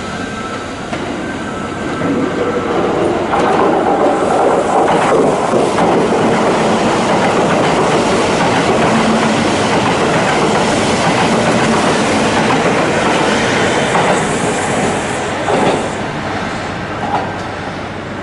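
Kintetsu limited express electric train passing at speed, its wheels clacking over rail joints and points with some wheel squeal. The noise builds about two seconds in, stays loud through most of the pass, then eases off near the end.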